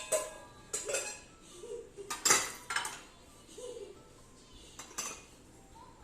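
Several sharp clinks and knocks of hard objects being handled, loudest in a cluster a little over two seconds in.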